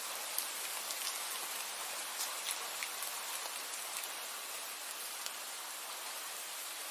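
Steady rain falling: an even hiss with scattered individual drops ticking sharply.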